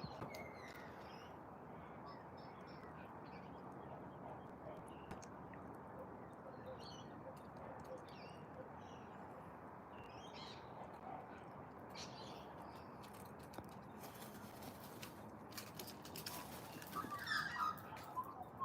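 Australian magpie singing: scattered short warbled phrases over a steady background hiss, becoming louder and more continuous near the end.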